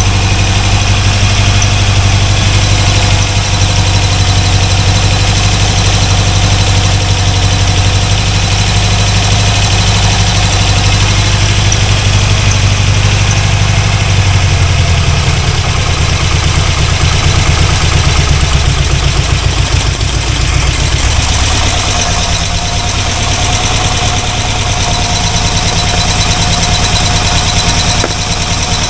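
Freshly rebuilt Chevrolet 350 small-block V8 idling loudly and steadily with no rod knock, running rich with the ignition timing still well out. Its idle speed drops about halfway through and drops again a few seconds later.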